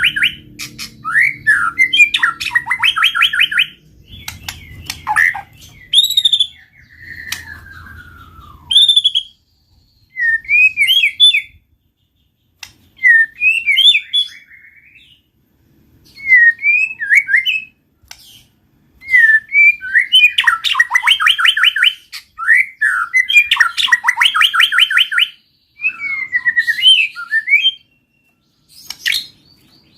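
White-rumped shama singing loudly and in full song, in separate phrases a second or two apart: fast runs of rapidly repeated notes alternating with slurred, up-and-down whistles.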